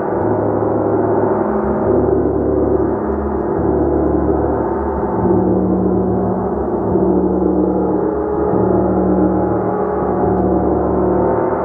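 A gong played continuously: a sustained, shimmering wash of overlapping tones that swells gently every second or so as it is struck or rolled again.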